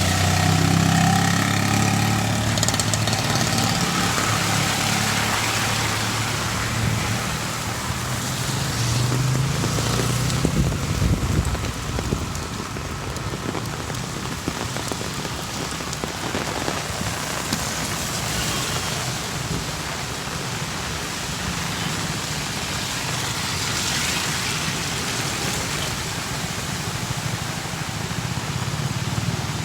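Steady rain falling, with motor-vehicle engines passing in the first few seconds and again about ten seconds in.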